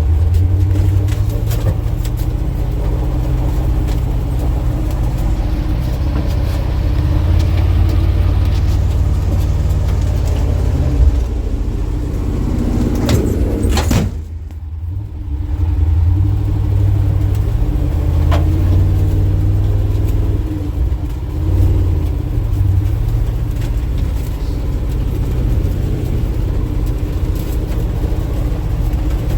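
1967 International 1200 truck's engine running, a steady low rumble that drops off briefly about halfway through and then picks up again.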